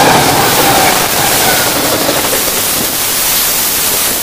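Freight train passing close alongside, a loud steady rushing roar as the diesel locomotives go by and the double-stack container cars follow. A faint falling tone from the passing locomotives fades out in about the first second.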